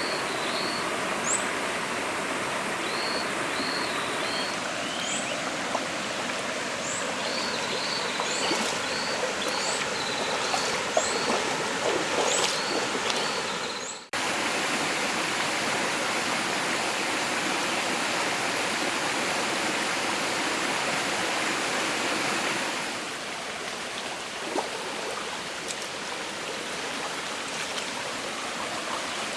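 Steady rush of a waterfall and stream flowing over rock. Through the first half a bird calls over it again and again in short chirps, and after a brief dropout halfway through only the water is heard, a little quieter near the end.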